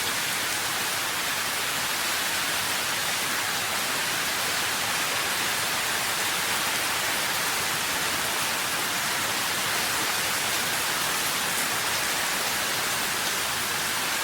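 Steady, even rain with a dense hiss, heaviest in the high pitches and with no distinct drops standing out.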